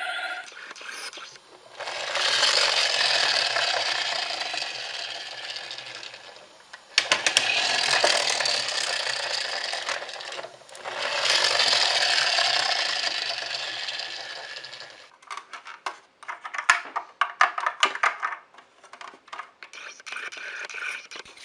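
A toy's small electric motor whirring in three runs of several seconds each, followed by a string of quick clicks and knocks.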